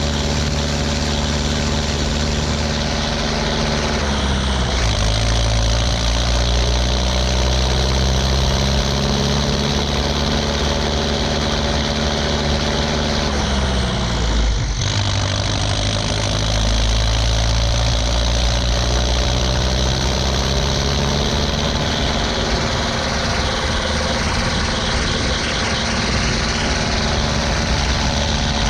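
Ursus 1014 tractor's straight-piped four-cylinder turbo diesel running under load while pulling two loaded trailers. Its revs drop about four seconds in and again sharply about halfway through, then climb back.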